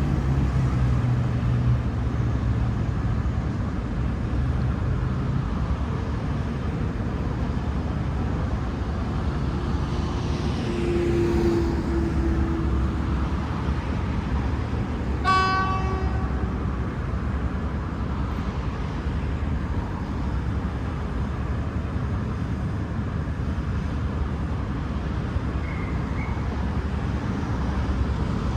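V/Line VLocity diesel railcar set departing, its diesel engines giving a steady low rumble, with one short horn toot about halfway through.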